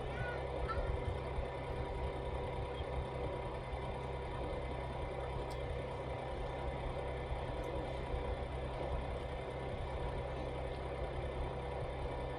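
A steady low mechanical hum that holds even throughout, with faint steady tones above it.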